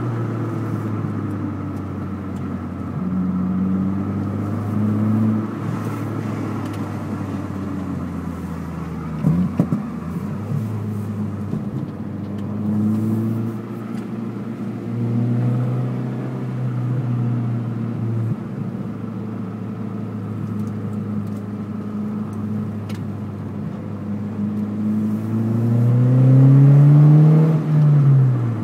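Opel Astra coupe 2.2 engine running through a Cobra Sport aftermarket exhaust with resonated centre silencer. The engine note rises and falls several times, with a bigger rev that climbs and drops back near the end.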